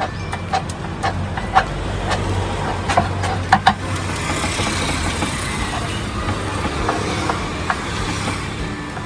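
Street background noise with a steady low hum, and scattered light clicks and knocks, several close together about three to four seconds in.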